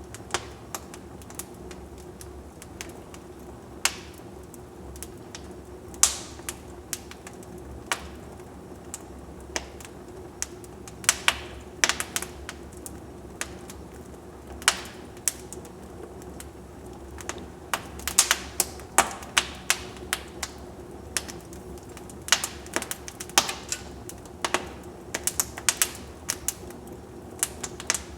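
Wood fire crackling in a fireplace: irregular sharp pops and snaps over a steady low hiss of burning, coming thicker and faster in the second half.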